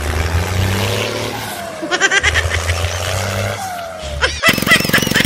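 A small tractor's engine runs with a low hum, briefly dropping out twice, with a falling squeal-like glide twice. About four and a half seconds in the sound cuts abruptly to a man yelling loudly over fast pulsing noise.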